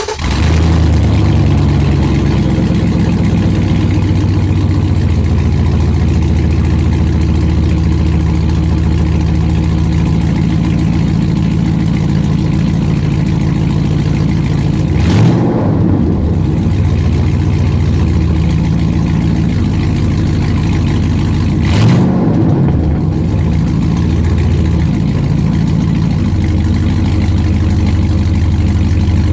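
2004 Chevrolet Silverado's 5.3-litre V8 running loud and raw through a true dual exhaust with no catalytic converters and no mufflers. It catches right at the start, then idles, with two short throttle blips about 15 and 22 seconds in.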